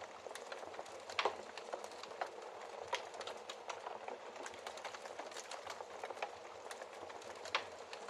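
Fireplace fire crackling: a steady soft hiss with many small pops and ticks. Louder snaps come about a second in and near the end.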